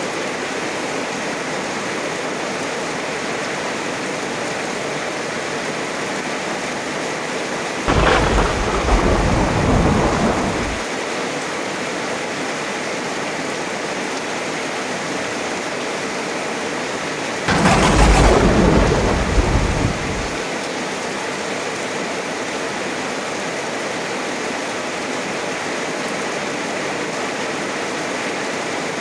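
Steady heavy rain, broken twice by a sudden clap of thunder, about eight seconds in and again about ten seconds later, each rumbling for two to three seconds before dying back into the rain.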